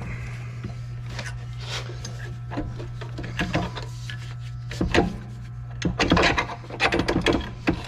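Intermittent scraping and clicking of hand tools and metal parts being worked on, over a steady low hum.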